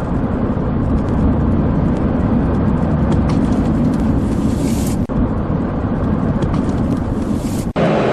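Steady road and engine noise of a car driving at highway speed, heard from inside the cabin. The sound briefly drops out about five seconds in and again near the end, after which it turns brighter.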